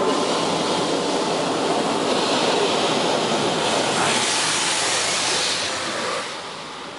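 High-pressure rinse jets of a touchless automatic car wash spraying against the car's body, heard from inside the car as a loud, steady hiss of water. It comes in suddenly as the jets reach the car and fades about six seconds in as they move away.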